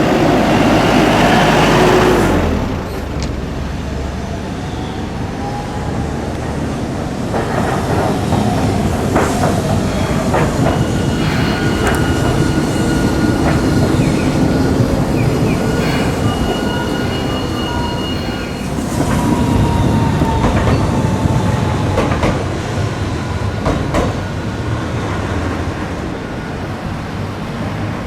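Hiroshima Electric Railway streetcar running on its rails, its wheels clacking over rail joints. A whine rises in pitch a few seconds in, and high steady tones sound through the middle.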